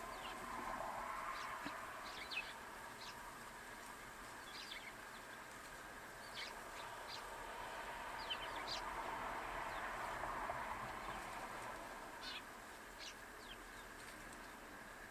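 Wild birds giving short, high chirps at scattered, irregular intervals, over a faint steady background hush.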